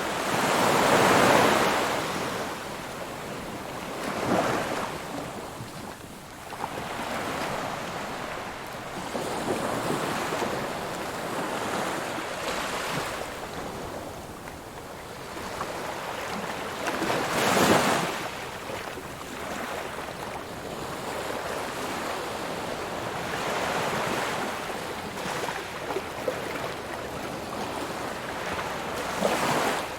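Ocean waves breaking on a shore, the surf swelling and washing back. The two biggest breakers come about a second in and just past the middle, with smaller ones between.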